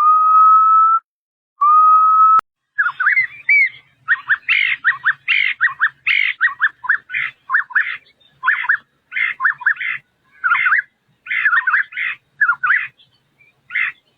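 White-browed scimitar babbler calling: two long, steady whistled notes, then from about three seconds in a long run of short, quick whistled notes repeated in clusters.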